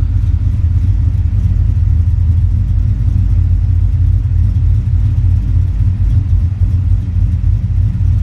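Ford XR8's V8 idling steadily at operating temperature through its new aftermarket exhaust: an even, deep rumble.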